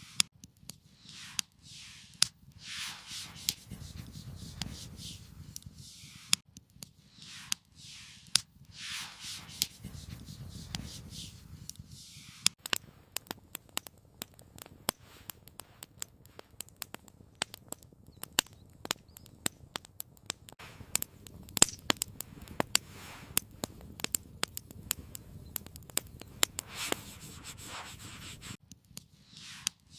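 Wood campfire crackling, with many sharp irregular pops and snaps. In the first part they are mixed with repeated short rustling, scraping sounds.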